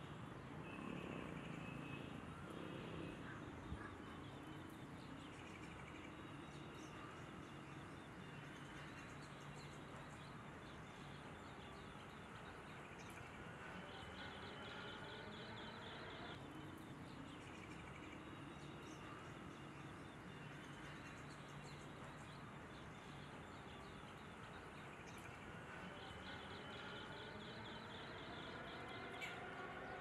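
Faint outdoor ambience: small birds chirping in short rapid series over a steady low background hum.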